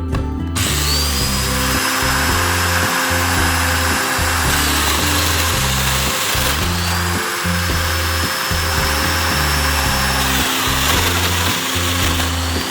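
Electric satin finishing machine (a handheld drum sander) running, starting about half a second in, with a high whine that rises and levels off near the start and again midway. Background music plays underneath.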